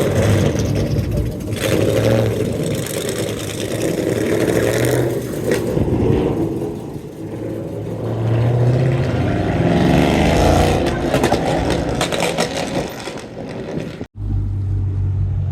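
American muscle cars' exhausts revving and accelerating away, the pitch rising and falling as they pull out. Near the end the sound cuts off abruptly to a steady low engine rumble.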